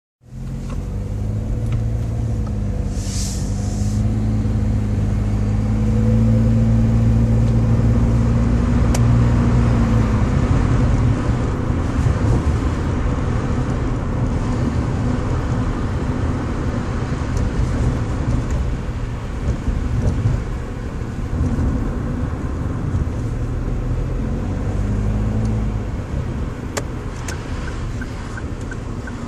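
Daihatsu Move Custom RS (L175S) 660 cc three-cylinder engine running with a deep, low note. The engine sound swells and holds steady for a few seconds about a third of the way in, then settles back to a rougher, lower run.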